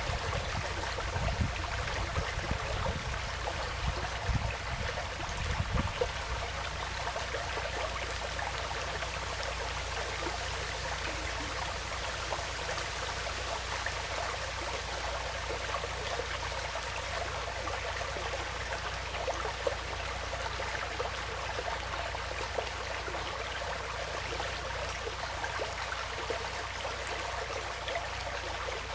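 Woodland stream flowing and trickling steadily, with a few low rumbling bumps during the first six seconds.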